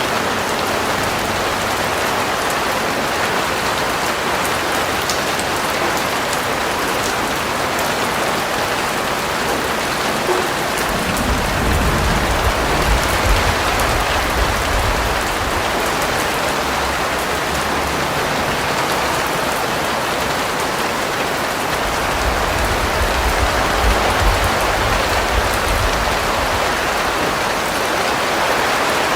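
Steady rain falling on a surface, an even hiss of many drops. Twice, a low rumble rises under it for a few seconds.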